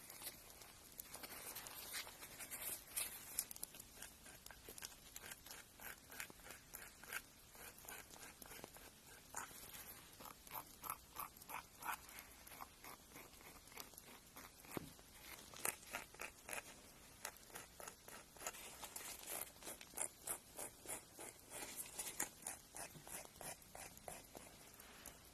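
Fingernails being filed with a nail file: quick, repeated scraping strokes in runs of several a second, with short pauses between runs.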